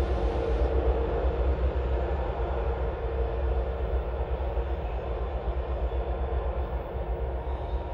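Diesel locomotives hauling a loaded coal train, a steady low rumble with a droning hum.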